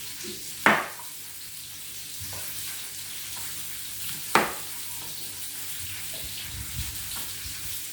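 Chicken fillets frying in a pan with a steady sizzle. Two sharp knocks, about a second in and past four seconds in, come from a knife chopping potatoes on a board.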